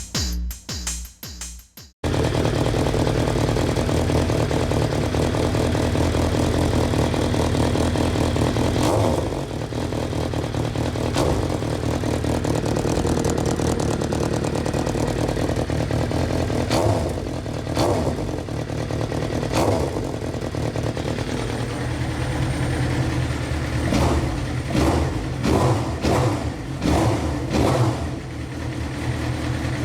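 Suzuki GSX-R's inline-four engine idling through an SC Project exhaust fitted with a homemade dB killer, with a series of short throttle blips in the second half. Music plays over the first couple of seconds.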